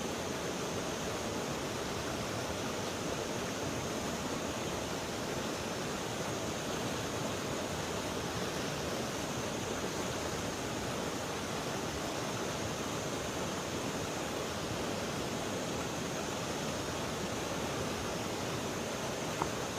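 Steady rushing of flowing river water, an even hiss with no let-up.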